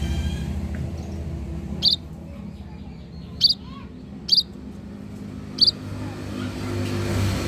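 Munias (pipit/emprit) giving short, sharp, high chirps, four single calls a second or so apart. Under them runs a low engine rumble that fades in the middle and builds again near the end.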